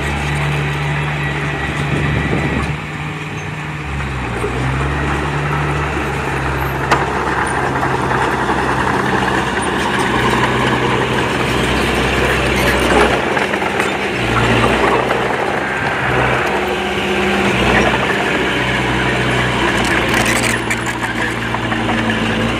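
Diesel engine of heavy earthmoving machinery running under load, its pitch dropping and rising several times as the load changes, over a continuous rough mechanical noise.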